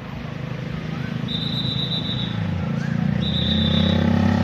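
A motor vehicle's engine running and growing steadily louder, with two long, high, steady whistle tones about a second apart.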